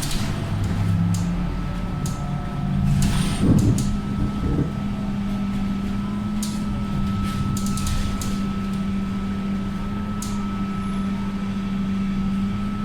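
Scania K230UB single-deck bus heard from inside the saloon, its diesel engine running with a steady hum and scattered clicks and rattles. About three seconds in, a brief burst of hiss stands out.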